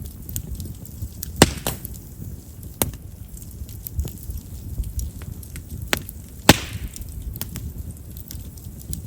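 Chestnut firewood burning in an open fire, crackling with scattered sharp pops over the low, steady sound of the flames. Two loud snaps stand out, about a second and a half in and again about six and a half seconds in. Chestnut, with its large pores, is known as a wood that pops readily.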